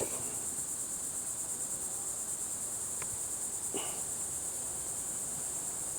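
Steady, high-pitched chorus of insects droning without a break, with a brief click at the start and a short faint sound a little before the four-second mark.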